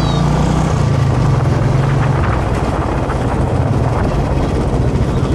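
Royal Enfield Classic 350 UCE's single-cylinder engine running while the motorcycle is ridden, with wind noise over the microphone. The low engine note weakens about two seconds in.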